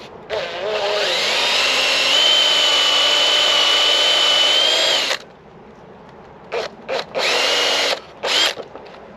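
Electric drill boring a 16 mm hole in chestnut wood: one long run of about five seconds whose motor pitch rises as it spins up and then holds, followed by a few short bursts near the end.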